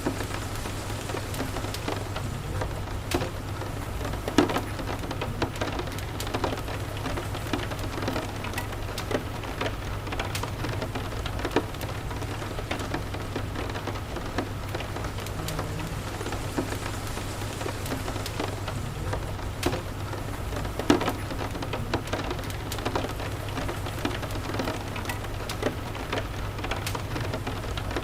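Steady rain with the crackle of a wood fire: a constant hiss of rainfall and a low steady rumble, broken by frequent small sharp crackles and a few louder pops.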